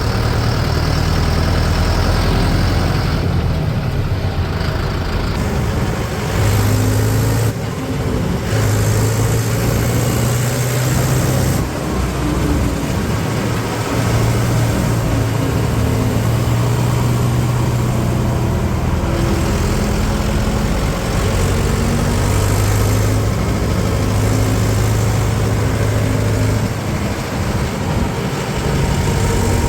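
Heavy diesel engine running steadily under work, its pitch shifting up and down several times as the throttle changes.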